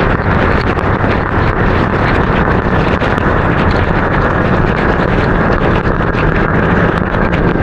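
Wind rushing over the microphone of a motorbike ridden in the rain, with engine and road noise underneath and many brief ticks scattered through it.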